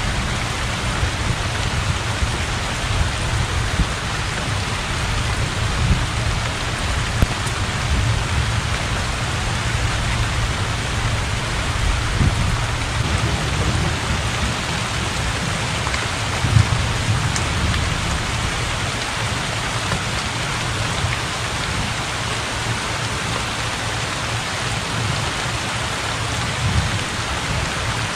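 Heavy rain falling steadily on open water and a thatched roof, a dense even hiss with a low rumble underneath that swells now and then. A few brief louder knocks stand out.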